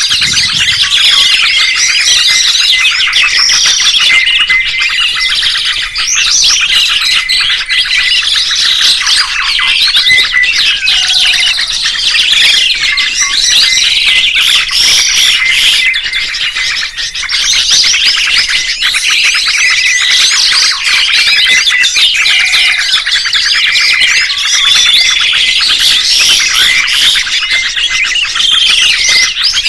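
Songbirds chirping and twittering in a dense, continuous, loud stream of rapid high notes and trills, with one steady whistled note recurring among them.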